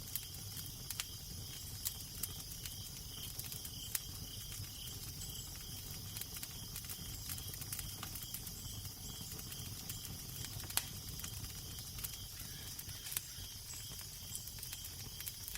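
Crackling fire with irregular small sharp pops, a few louder than the rest, over a steady low rumble of wind and a soft hiss. A faint, evenly pulsing high chirp runs underneath.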